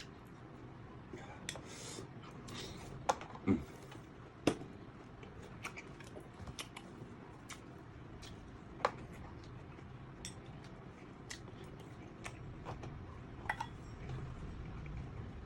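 Snail shells and an eating utensil clicking and clinking against a plate as sea snails are picked apart and eaten. Scattered small clicks, with a few louder knocks.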